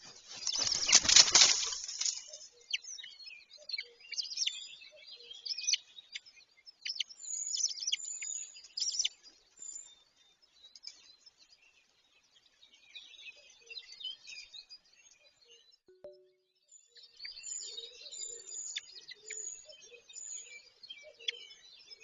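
A loud rustling burst in the first two seconds, then birds chirping and twittering in short high calls and whistles, with a brief lull midway.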